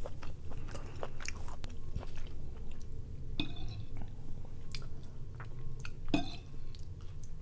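Close-miked chewing of rotisserie chicken, with many small wet mouth clicks at an irregular pace.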